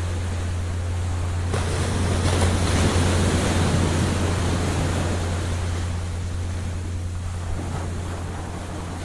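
Ocean surf: a wave breaks about a second and a half in, its wash swells for a couple of seconds and then recedes, over a steady low rumble.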